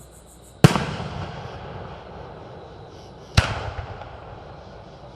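Two aerial fireworks shells bursting, a sharp bang about a second in and another about two and a half seconds later, each trailing off in a long rolling echo.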